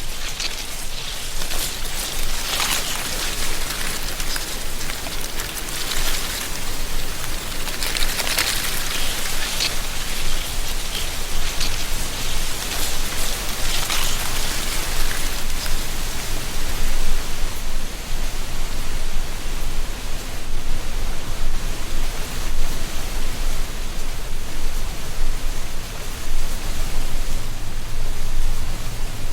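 Wind blowing through treetops, dry leaves rustling. The rustle swells in gusts several times in the first half, then settles into a steadier hiss.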